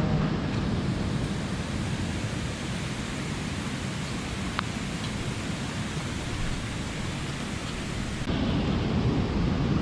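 Steady rush of a mountain stream, a little louder from about eight seconds in, with one faint click about halfway through.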